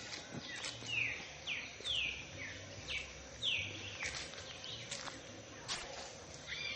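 A songbird singing a quick series of about six falling whistled notes, roughly two a second, over outdoor background noise with a few faint clicks.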